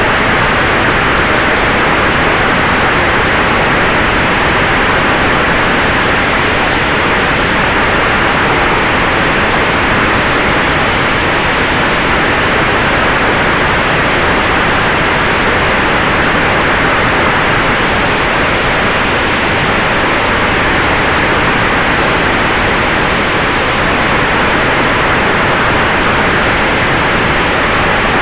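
Steady rush of airflow and propeller noise from the electric Sonex Xenos airplane in flight, with a faint steady tone running under it.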